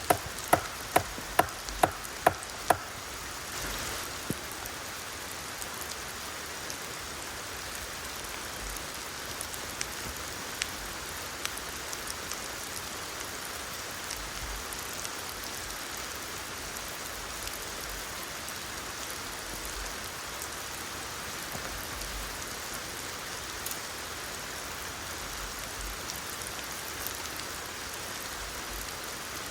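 Steady rain falling, with scattered drops ticking. In the first few seconds a run of sharp knocks, about two to three a second, stops.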